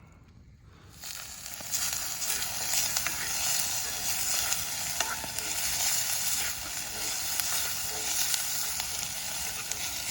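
Chopped onions, peppers and garlic sizzling in oil in a cast iron mini Dutch oven over a campfire. The sizzle starts about a second in and then carries on steadily.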